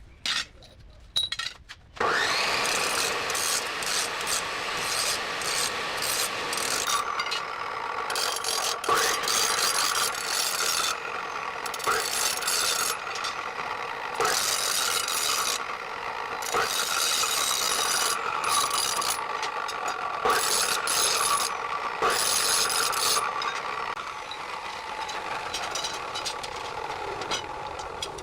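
Steady abrasive rubbing and scraping, as when sanding or filing a part by hand. It starts suddenly about two seconds in, with a harsher hiss that comes and goes in spells of a second or two.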